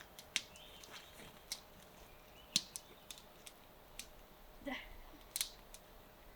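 A dachshund biting and chewing at a crinkly flirt-pole lure: scattered sharp crackles and clicks, with a short cluster of them about five seconds in.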